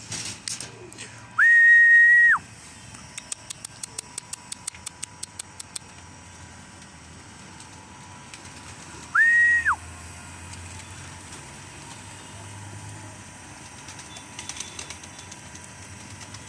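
A pigeon keeper's whistle to his pigeons: two loud, steady, high whistles, the first about a second long and the second shorter, some seven seconds apart. Between them comes a quick run of light ticks, about four or five a second.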